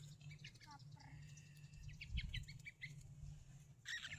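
Tame pet birds chirping faintly in a quick run of short, high chirps, over a steady low hum.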